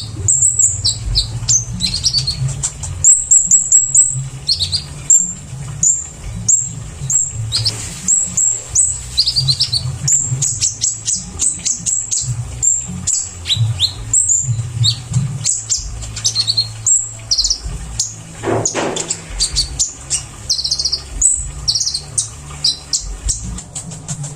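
Kolibri ninja sunbird singing a fast run of short, high chirps and trills, many of them quick downward notes, over a steady low hum.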